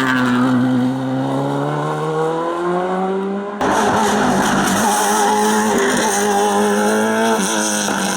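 Race car engines at full song: one engine's pitch dips and then climbs again over the first few seconds. An abrupt cut about three and a half seconds in brings a second car holding high, fairly steady revs.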